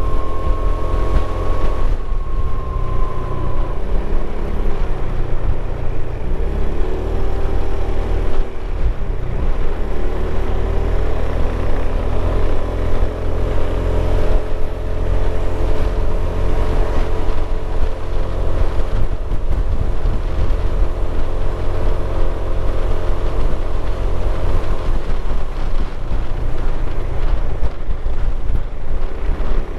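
Motorcycle engine running under way, with heavy wind rumble on the microphone. The engine note falls and climbs again a few times, as with gear changes.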